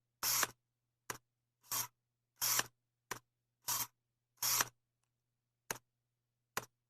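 A series of short, crisp snipping or scraping strokes mixed with brief clicks, about one every half second to a second with silence between them, over a faint low hum.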